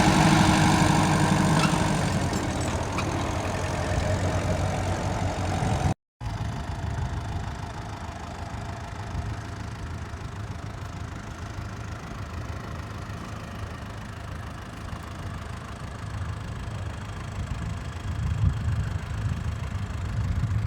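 Tractor engine running, loud at first and fading over the first few seconds as it pulls away; after a cut, a quieter steady tractor engine running, growing louder again near the end.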